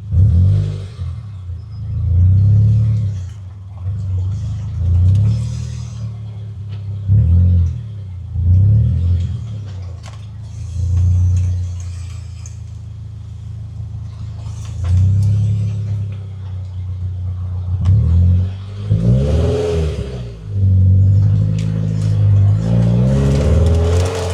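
Car engine, a Scion FR-S/Subaru BRZ's flat-four, running under way and revving up and down repeatedly, with several rises and falls in pitch toward the end.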